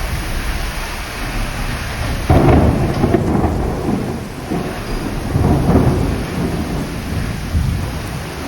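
Heavy rain pouring down in a storm, a continuous rushing hiss with low rumbling swells about two seconds in and again around the middle.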